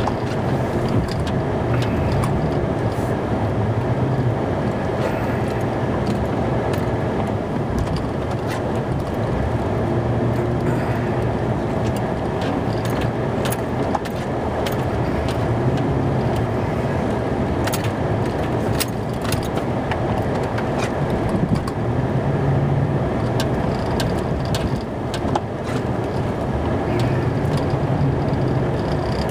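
Snow plow truck's engine running as it works a driveway, its hum swelling and easing several times, with scattered sharp clicks.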